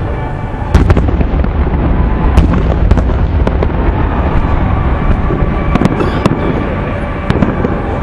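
Aerial fireworks bursting: a continuous rolling rumble of booms with about seven sharp cracks and pops scattered through it.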